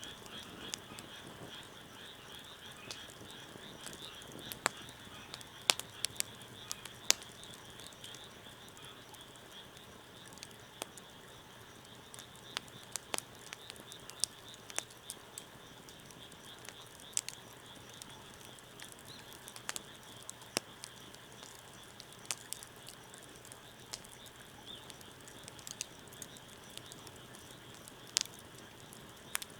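Wood fire crackling, with irregular sharp pops, the loudest about four to seven seconds in. Behind it runs a steady high-pitched chorus of frogs.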